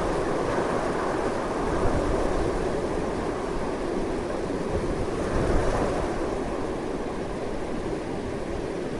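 Strong wind blowing continuously, a deep rushing noise with a low rumble, swelling in gusts about two and five and a half seconds in.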